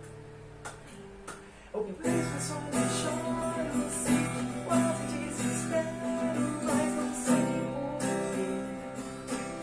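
Acoustic guitar: a chord rings out and fades, then steady strummed chords start about two seconds in and carry on.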